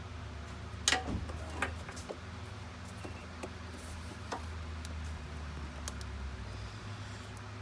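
Scattered light clicks and knocks, like hand tools handled against metal, over a low steady hum.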